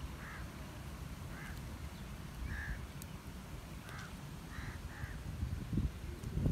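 Birds calling outdoors: about six short calls, spaced roughly a second apart, over a steady low rumble.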